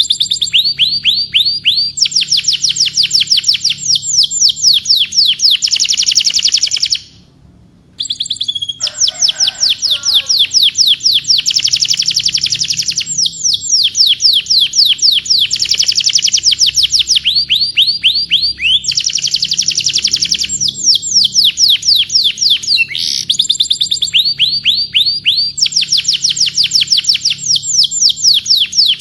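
Domestic canary singing long rolling trills of rapid, repeated sweeping notes, high-pitched and loud. The song breaks off briefly about seven seconds in, then resumes.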